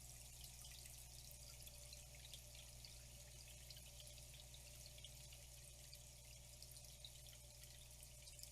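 Faint flowing water: a steady hiss dotted with many small drips and splashes, over a low steady hum.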